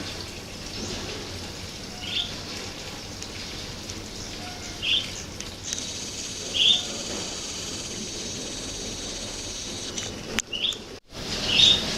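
Wild birds calling: single short chirps every second or two over steady outdoor background noise. A steady high-pitched sound holds for a few seconds in the middle.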